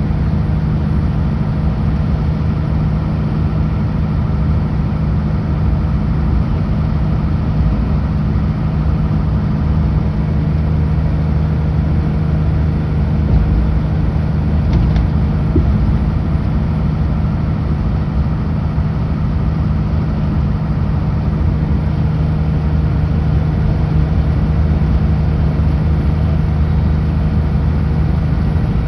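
Kenworth W900L semi truck's diesel engine running at a steady, unchanging drone, with tyre and road noise, while cruising on the highway.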